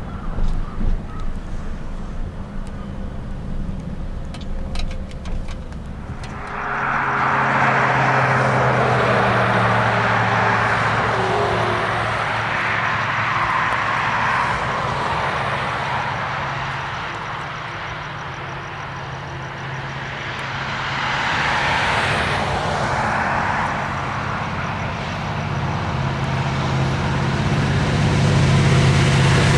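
Train running by: a low rumble that swells about six seconds in into a loud, steady rushing noise with a diesel locomotive's low engine drone underneath.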